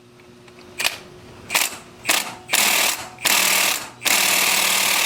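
Impact wrench hammering on the crankshaft pulley bolt, fired in several short bursts and then one long burst of about two seconds, without breaking the bolt loose.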